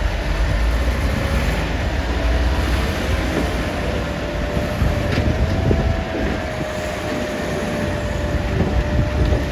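Caterpillar 966D wheel loader's diesel engine running hard with a low rumble and a steady whine that rises slightly midway.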